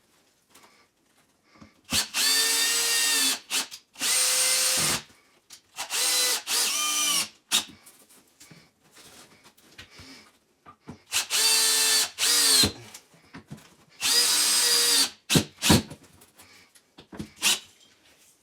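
A power drill run in short bursts, about five trigger pulls of a second or so each, the motor's pitch rising as it spins up and dropping as it stops, with a few quick blips near the end.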